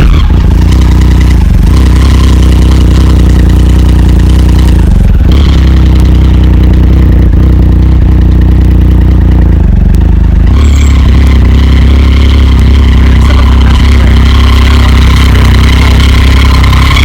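Motorcycle engine running loud and steady under way, its note changing about five seconds in and again about ten and a half seconds in.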